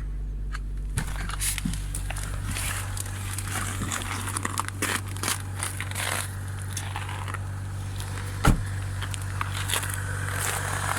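Audi 3.0 TDI V6 diesel idling steadily in deep cold, shortly after a cold start at −13 °C. Crackling and clicking sounds lie over the idle from about a second in, with one sharp thump near the end.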